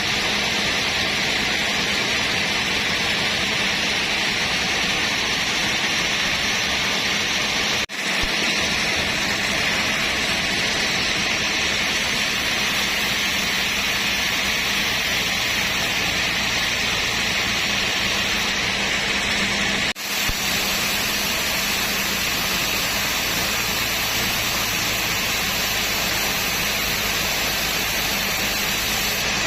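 Sawmill machinery running steadily, a constant noisy hiss with a low hum underneath, with two brief breaks about 8 and 20 seconds in.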